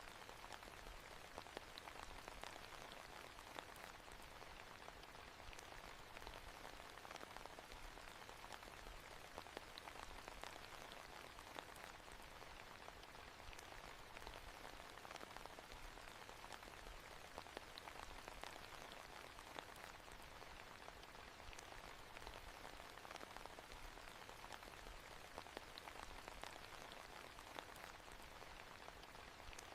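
Soft, steady rain, with many small drop ticks over an even hiss.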